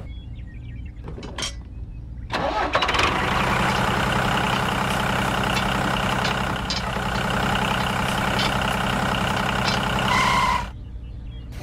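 A vehicle engine starting and then running steadily at idle for about eight seconds before cutting off suddenly.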